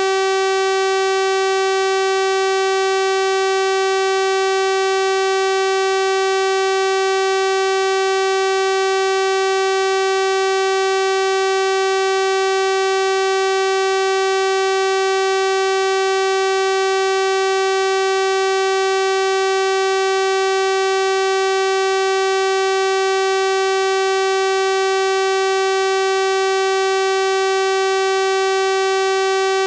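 Synthesized 384 Hz sawtooth-wave tone, held steady at one pitch and level: a bright, buzzy electronic drone.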